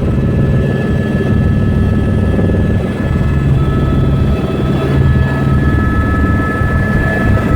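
Helicopter in flight: a steady, loud, fast chop of the rotor with a thin, steady high whine over it.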